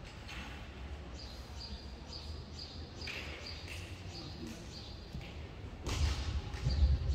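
Short high chirps, like a small bird calling, repeating irregularly about every half second. A low rumble with a few thuds swells near the end.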